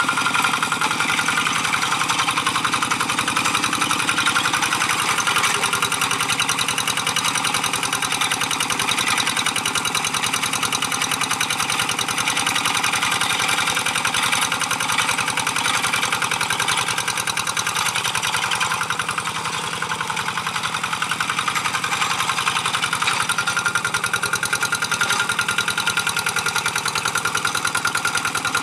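Engine of a G1000 two-wheel hand tractor running steadily, a fast even chugging, while it pulls a moldboard plow through dry paddy soil. The level dips slightly about two-thirds of the way in.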